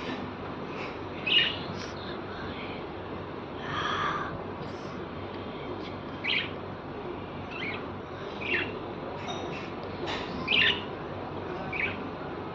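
Pet lovebirds giving short, sharp chirps every second or two over a steady background hiss.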